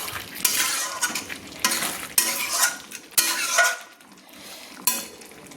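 A spatula scraping and stirring chicken in cashew-paste gravy in a kadai over a medium flame, about half a dozen strokes roughly a second apart, with the food frying.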